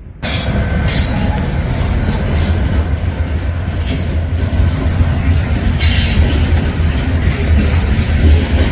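Freight train passing, loud, with a steady low rumble and sharp wheel clacks and metallic squeals from the rails every second or two. The sound cuts in suddenly right at the start.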